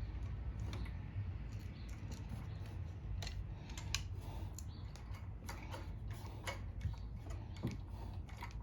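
Irregular small clicks and taps of hand tools and metal parts being handled while a lawn mower's carburetor is taken off, over a steady low hum.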